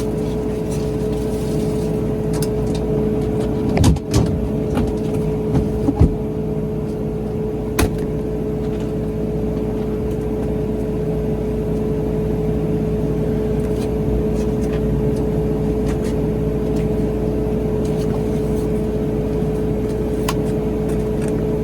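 Steady running noise of a motor vehicle with a constant hum, broken by a few sharp knocks or clicks about four, six and eight seconds in.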